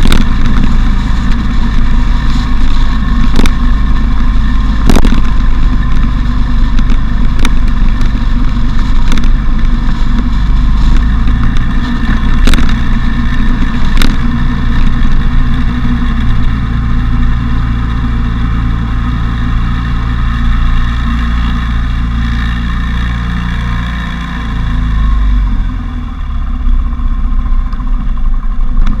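Motorcycle engine running under way, with heavy wind rumble on the microphone and a few sharp clicks in the first half. The engine eases off briefly near the end, then picks up again.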